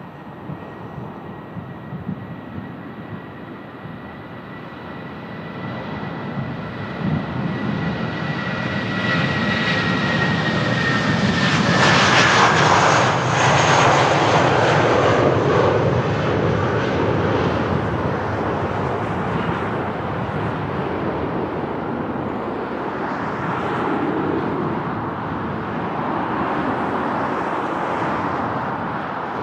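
An airplane passing close by: a high engine whine that drops in pitch as the aircraft goes past about twelve seconds in, when the engine noise is loudest, then fades slowly. Wind buffets the microphone throughout.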